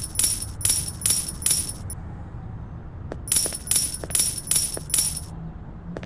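Girbau HS4012 commercial washing machine running a wash, with a rhythmic metallic jingling about two and a half times a second that stops for about a second and a half midway, over a steady low hum.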